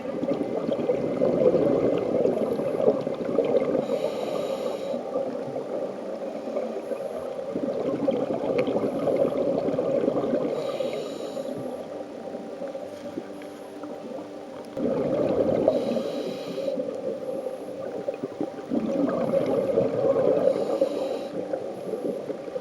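Scuba regulator breathing heard underwater: a steady gurgling rush of exhaled bubbles, with four short high hisses of inhalation about every five to six seconds.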